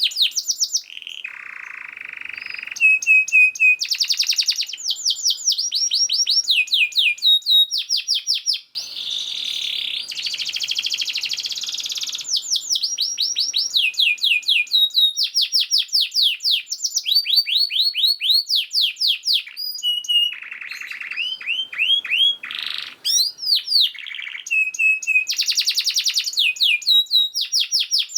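Domestic canary singing a long, fast song: rapid runs of repeated falling whistled notes, changing to a new phrase every second or two, mixed with buzzy trills and rattles.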